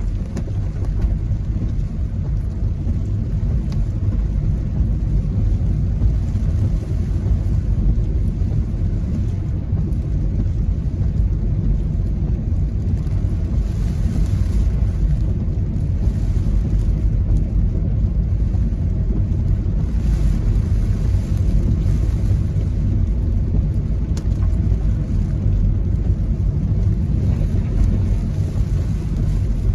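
Typhoon wind buffeting the microphone: a steady low rumble that rises and falls slightly in gusts, with a faint hiss swelling twice midway.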